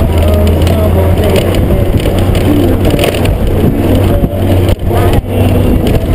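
Honda GoldWing GL1500's flat-six engine running steadily as the motorcycle rolls along a loose gravel track, with wind noise on the helmet-mounted microphone. The sound drops out briefly twice about five seconds in.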